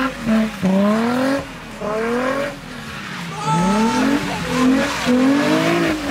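Nissan 350Z's 3.5-litre V6 revving hard in a string of short rising pulls as the car drifts on wet pavement. The revs sag about halfway through, then climb again and hold high.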